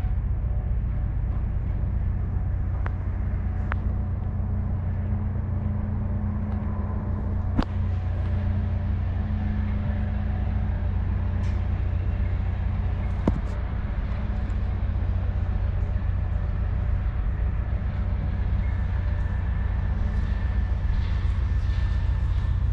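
A machine or engine running steadily with a low drone, with a few sharp clicks or knocks over it.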